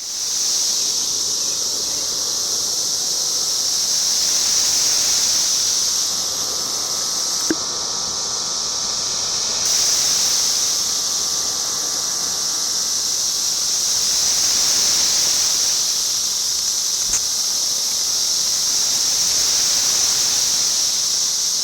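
A dense chorus of periodical cicadas (Brood X) screaming in the trees, a steady, extremely loud high-pitched drone that swells and eases slowly every few seconds.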